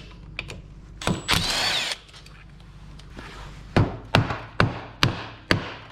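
A power tool runs briefly about a second in, with a falling whine, then five sharp metallic knocks about half a second apart as tools work the CVT cover loose on a Can-Am side-by-side.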